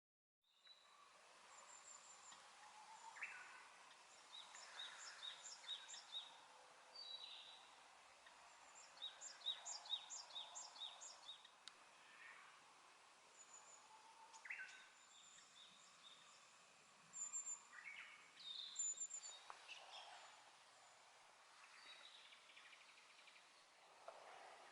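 Faint outdoor ambience of wild birds calling: several runs of quick, high chirps repeated in short series, over a low steady hiss.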